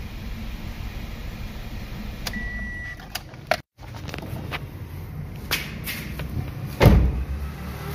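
Toyota Corolla XLi engine idling smoothly, its misfire cured and its revs back to normal. Then come a few clicks and a loud thump about seven seconds in, like a car door being shut.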